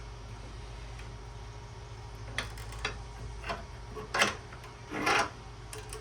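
Scattered light metal clicks and knocks, about five in the second half, with a longer scrape-like clatter near the end, from hand tools working a brass furnace pilot burner fitting clamped in a vise, over a steady low hum.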